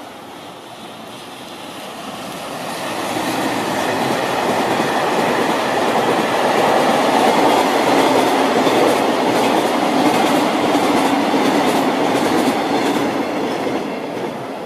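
EF210 electric freight locomotive and its train of tank wagons passing close by: the train noise rises as it approaches, stays loud while the wagons roll past with the clickety-clack of wheels over rail joints, then falls away as the last wagon clears near the end.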